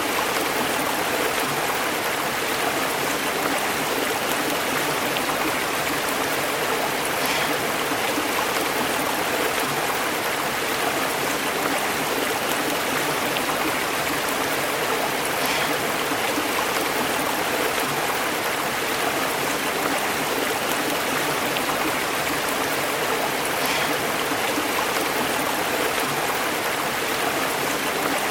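Stream burbling over rocks: a steady, even rush of flowing water.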